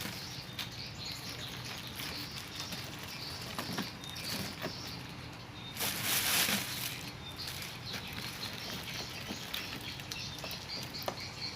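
Light rustling and small clicks of dry edible swiftlet nests being handled and sorted by hand, with a louder rustle about six seconds in.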